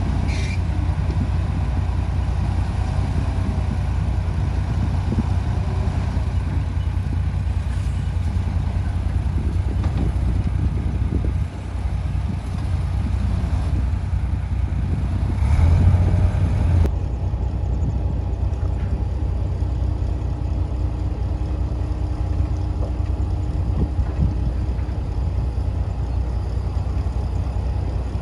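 Heavy diesel engine of earthmoving machinery running steadily under load, a low drone with a brief louder surge about two-thirds of the way through.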